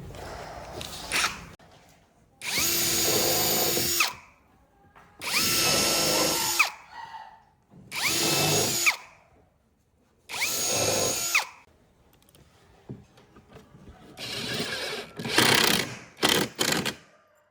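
Handheld electric drill run in four short bursts of about a second and a half each, the motor speeding up at the start of each and winding down at the end. A rougher, broken-up burst of the tool follows near the end.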